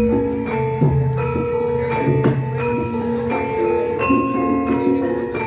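Javanese gamelan ensemble playing a gending: bronze metallophones and gongs struck in a steady rhythm, each note ringing on.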